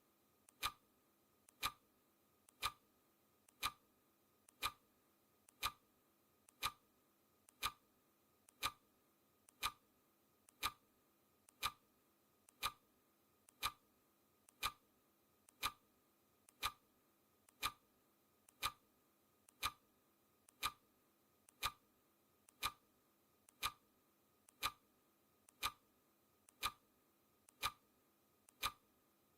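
Clock ticking steadily once a second, each tick a sharp click with a faint lighter click just before it.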